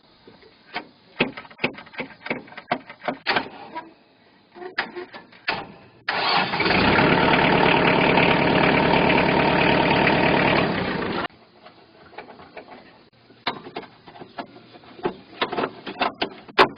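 Daedong LX470 tractor's starter cranking the engine for about five seconds, starting about six seconds in and cutting off sharply without the engine catching: a no-start tractor being tried while its starting safety switch wiring is worked on. Scattered clicks and knocks come before and after the cranking.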